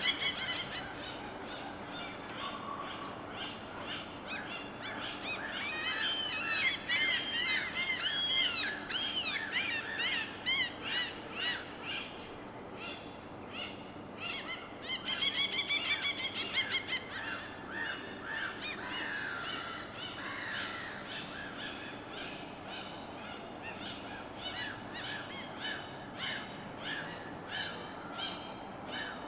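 Birds calling over a steady wash of water. There is a quick run of chirping notes from about six to ten seconds in, another burst of repeated calls around the middle, and scattered calls the rest of the time.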